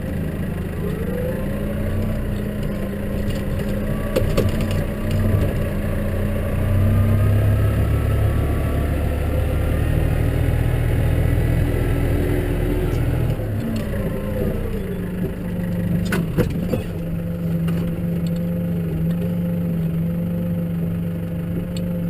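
Case tractor engine running: the revs rise about a second in and hold higher, with a heavier rumble, then ease back to a steady lower speed about two-thirds of the way through. A couple of sharp knocks are heard.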